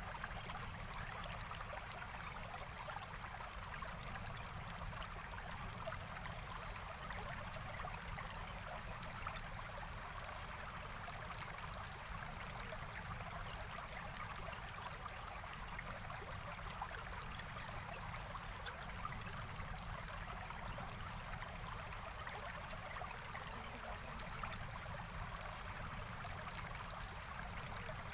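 Forest stream flowing steadily over rocks: a continuous, even rush of water.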